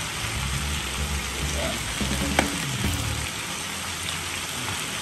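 Sliced pork ears sizzling steadily in a hot wok as garlic chili sauce is squeezed over them, with one sharp click about two and a half seconds in.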